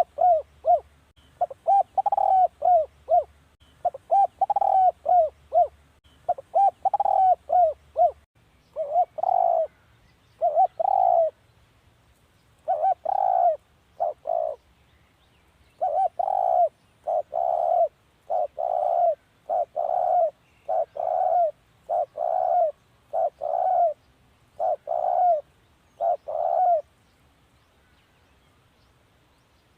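Spotted dove cooing over and over in short phrases of low, arched notes, stopping about three seconds before the end.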